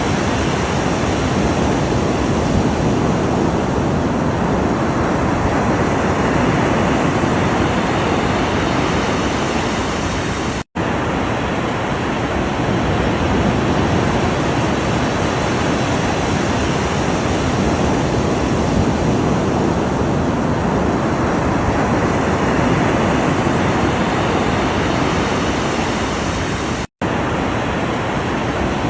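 Ocean waves breaking in a continuous surf, swelling and easing slowly. The sound cuts out for a split second twice, about ten seconds in and near the end.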